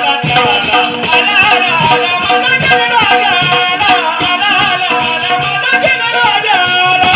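Padavali bhajan music: a male voice singing with wavering vibrato over a steady hand-percussion beat with rattling strokes.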